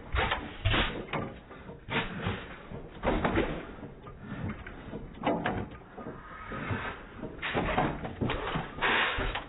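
Bauer antique gas engine running, its exhaust firing in uneven bursts with quieter stretches between them and a denser run of firing near the end.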